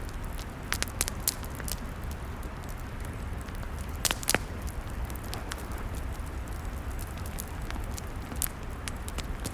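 Log fire crackling: sharp pops and snaps at irregular intervals, the loudest pair about four seconds in, over a steady low rumble of burning.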